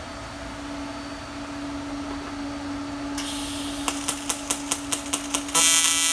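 Everlast PowerPro 256S TIG welder on aluminium (AC). It starts with a steady hum. A hiss comes in, then a quick run of sharp ticks, about five a second, from the high-frequency arc start. About five and a half seconds in, the arc strikes and buzzes loudly and steadily.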